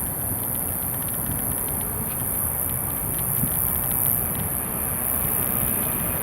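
Steady rumble of a jet airliner's engines at an airport, with a constant high hiss over it.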